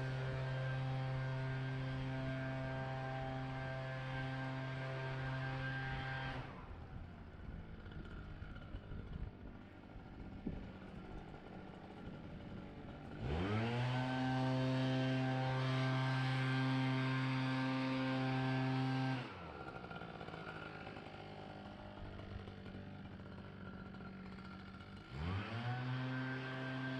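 Leaf blower run in bursts: it runs steadily at a high pitch, cuts off after about six seconds, spins up quickly again about halfway through, cuts off after another six seconds, and spins up once more near the end.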